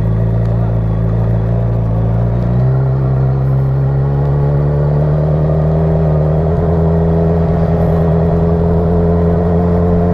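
A motor vehicle engine running steadily and close, its pitch stepping up slightly about two and a half seconds in and then holding.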